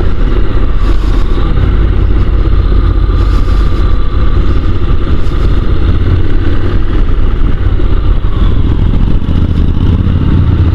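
Honda NC750 DCT's parallel-twin engine running while the motorcycle is ridden through a continuous run of bends, heard on board as a loud, steady low rumble with road and wind noise.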